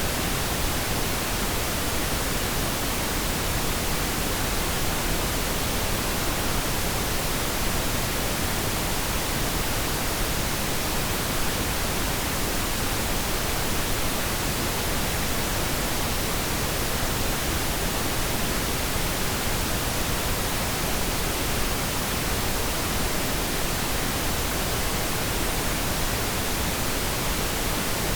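Synthetic pink noise: a steady, unchanging hiss spread evenly across the whole range of pitches, with no tones or events.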